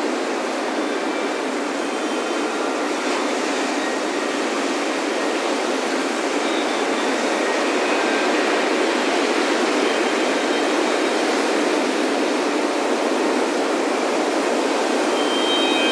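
Ocean surf breaking and washing onto a beach in a steady, continuous rush, swelling slightly about halfway through and again near the end. Faint metal wind chimes ring now and then above it.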